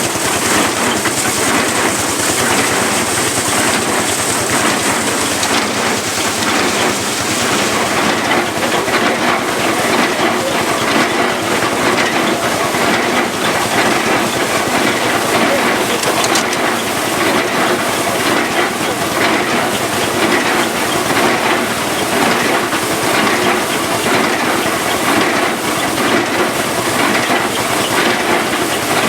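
Old belt-driven threshing machine running under power from a Lanz Bulldog tractor, giving a steady, dense clatter and rattle.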